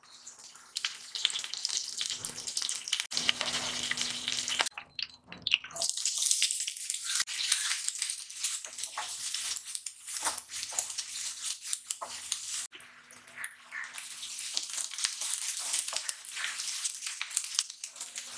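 Hot oil sizzling and spitting in a frying pan as curry leaves go in, then chopped onions frying, with a wooden spatula stirring and scraping against the pan. The sizzle breaks off briefly about five seconds in.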